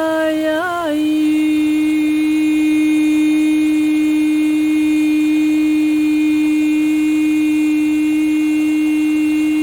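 A woman's voice toning one long sustained vowel at a single steady pitch, with a brief wobble as the vowel shifts about a second in, over a soft hiss like rain.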